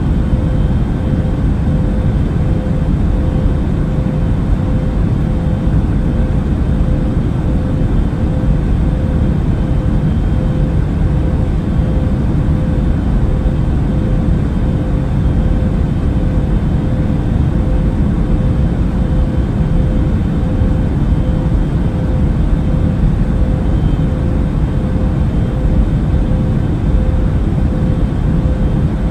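Steady drone of an airliner cabin in flight: a deep rumble of engine and air noise with a steady hum running through it.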